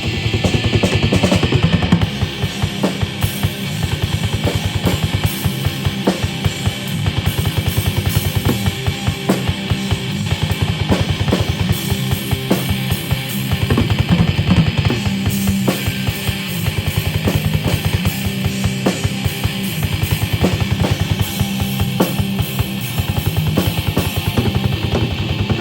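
Live rock band playing an instrumental passage, drum kit hitting fast and busy over bass and guitar.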